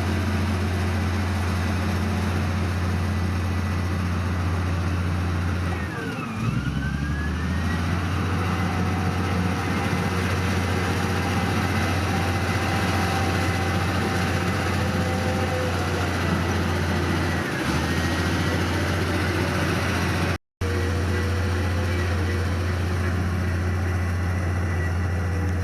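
Heavy diesel engine of earthmoving machinery running steadily, with a thin high whine above the low engine note. The engine note dips briefly about six seconds in and again about two-thirds of the way through, the whine gliding down and back up with it, and the sound cuts out for an instant near the end.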